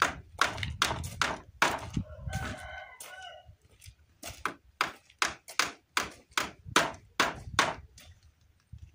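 Hammer blows nailing wooden fence boards, a steady run of sharp strikes about two a second. A rooster crows once, about two seconds in.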